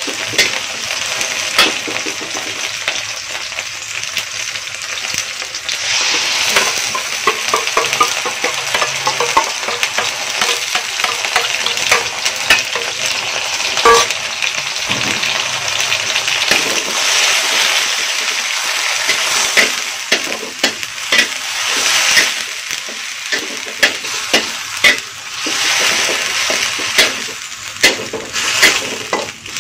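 Onions sizzling as they are stir-fried in hot oil in a pan, with a steady hiss and frequent short clicks and scrapes of the stirring utensil against the pan.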